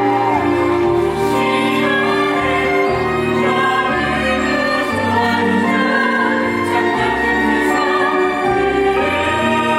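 Musical-theatre curtain-call number: the cast sing with instrumental accompaniment, in long held notes over a sustained orchestral backing.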